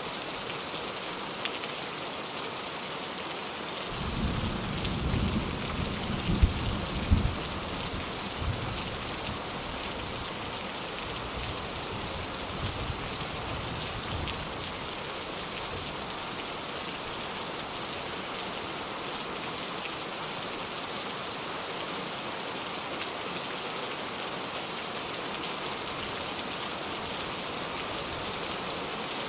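Steady rain falling, with a low rumble of thunder starting about four seconds in, peaking with a couple of sharper cracks, then fading away.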